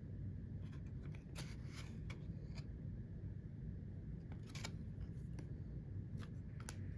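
Trading cards being flipped through by hand: short, scattered scrapes and clicks of card stock sliding over card stock, over a steady low hum.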